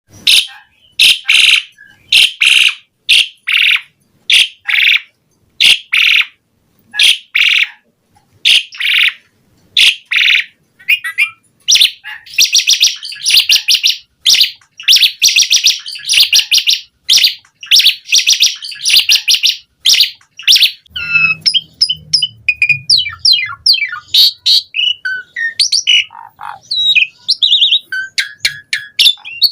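Asian pied starling singing loudly: a long run of harsh, rasping, squawky calls in quick bursts, changing after about twenty seconds to a varied mix of whistled notes, fast gliding phrases and chatter. This is the bird in full, vigorous song with many varied elements.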